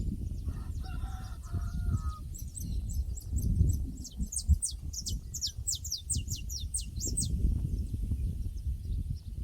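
Pasture ambience with a steady low rumble of wind on the microphone. Early on, a fowl gives one faint, crowing call lasting about a second and a half. Then a small songbird sings a rapid run of high, downward-sweeping notes for about five seconds.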